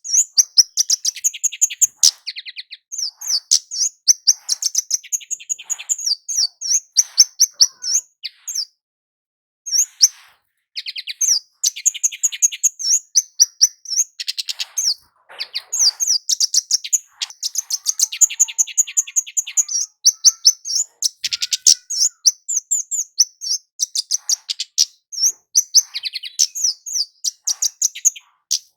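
Kemade jawa, a small flowerpecker, singing in fast trains of high, thin chipping notes with short pauses between phrases and a brief silence about nine seconds in.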